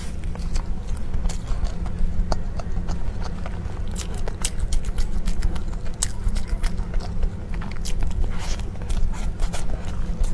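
Close-miked chewing of soft tiger skin cake roll: wet mouth clicks and smacks at an irregular pace, over a steady low hum.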